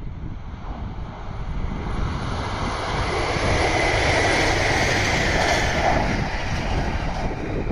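JR Shikoku 2000 series diesel train passing. Its engine and running noise swell to a peak in the middle and ease off a little near the end.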